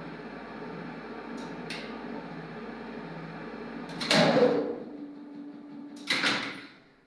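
1980s KMZ elevator machinery: the motor hums steadily with two light relay-like clicks, then a loud clunk about four seconds in as its pitch falls away, a brief steady hum, and a second loud clunk about six seconds in, after which the machinery falls quiet.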